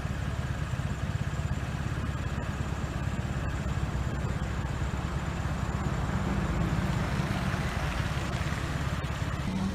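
An engine running steadily nearby, a low, evenly pulsing rumble, with general street noise over it.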